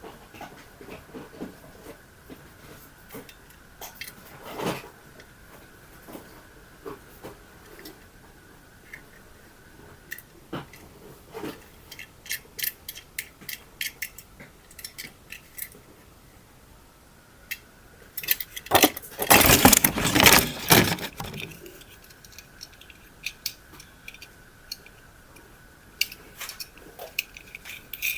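Small hard plastic objects being handled, with scattered clicks and light rattles, and a louder rustling burst of about three seconds roughly two-thirds of the way in. A faint steady high whine sounds underneath for most of the time.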